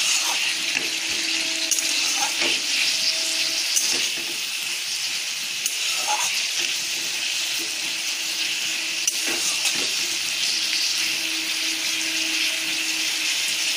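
Cubes of raw papaya and potato sizzling in oil and spice paste in a nonstick wok, a steady hiss, while a metal spatula stirs them, with a few light scrapes and taps against the pan. This is the kasha stage of slow-frying the vegetables in the masala.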